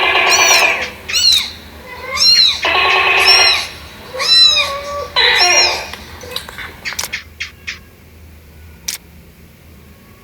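Animal-call sound effects from a cat game: short rising-and-falling meow-like calls alternating with three buzzy half-second tones, then a series of sharp clicks from about seven seconds in.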